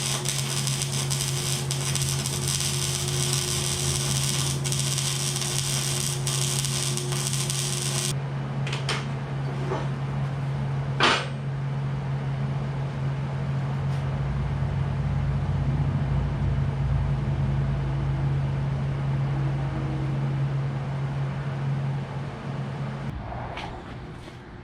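MIG welder welding steel: a steady hum under the crackling hiss of the welding arc for about the first eight seconds. The hum continues alone, with one sharp click about eleven seconds in, and stops shortly before the end.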